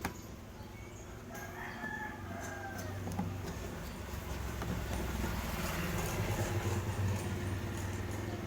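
A rooster crowing once, faintly, about a second and a half in, over a low steady hum that grows louder from about two seconds in.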